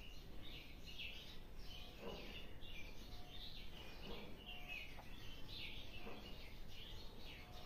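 Faint bird chirps, short calls repeating every second or so, over low background noise.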